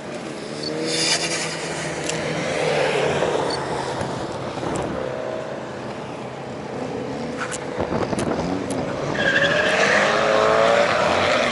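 Drift cars sliding through a corner: engines revving hard at high rpm with tyres squealing. The sound swells about a second in, eases off mid-way and swells again near the end.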